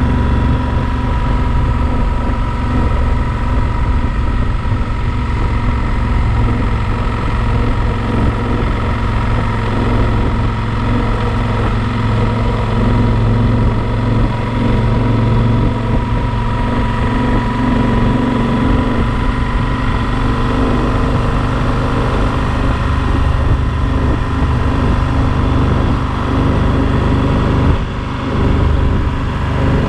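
Yamaha Super Ténéré XT1200 motorcycle engine running at a steady pace while the bike is ridden, with road and wind noise, briefly dipping in level near the end.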